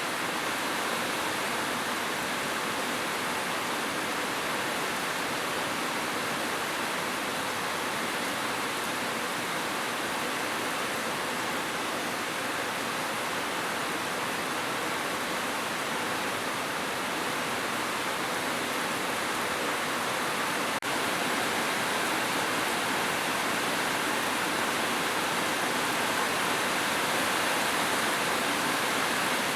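Heavy rain falling steadily on a roof, an even hiss with a brief dropout about two-thirds through.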